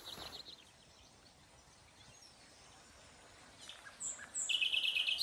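Songbirds singing: a short run of faint chirps at the start, then, after a quiet stretch, a few high thin notes and a rapid high trill near the end.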